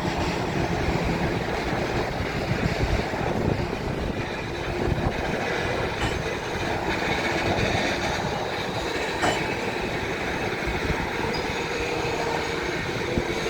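Freight train cars rolling slowly past as the train slows down, wheels rumbling steadily on the rails with a faint steady squeal. A couple of sharp clicks partway through.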